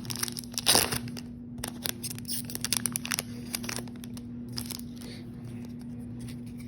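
Yu-Gi-Oh booster pack's foil wrapper crinkling and tearing open, loudest in the first second, followed by softer rustling and clicks as the cards are handled.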